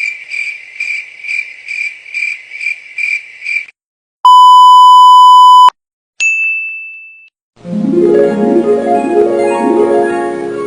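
A run of separate sound effects: a high electronic beep pulsing about twice a second for almost four seconds; then a loud, steady, lower beep for about a second and a half; then a short high ding that fades away. About three-quarters of the way in, music with quick keyboard-like notes begins.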